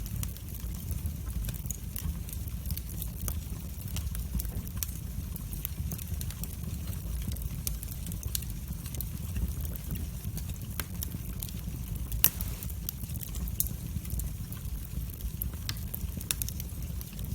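Fire burning in a fireplace: a steady low rumble of flames with frequent, irregular sharp crackles and pops, one louder pop about twelve seconds in.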